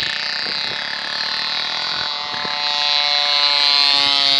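Engine of a homemade fixed-wing model airplane, a converted grass-cutter engine, running steadily in flight with a high buzzing drone that rises a little in pitch in the second half.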